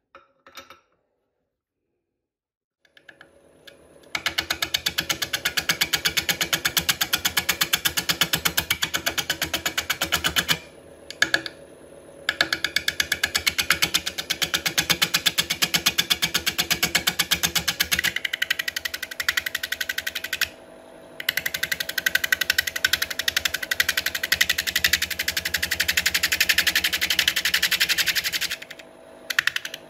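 Wood lathe turning an out-of-round burl, with a turning tool making an interrupted cut on its uneven surface: a loud, rapid, steady rattle of many knocks a second. It starts a few seconds in and stops briefly a few times.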